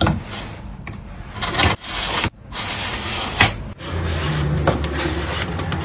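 A hand tool scraping and rubbing along wood in a series of strokes, broken by abrupt cuts. A low steady hum joins about four seconds in.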